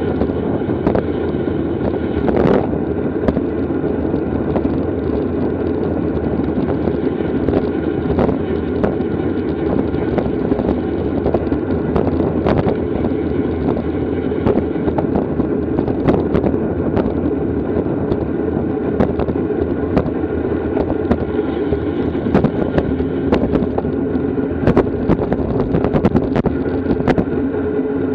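Steady wind noise on the microphone of a racing bicycle at speed, with tyre and road noise and many scattered sharp ticks and rattles.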